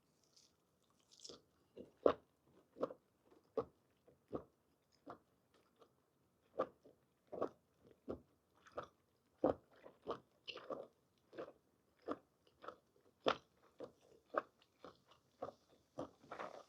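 Close-miked chewing of soft, chewy parboiled squid: a steady run of wet chewing strokes, about one or two a second.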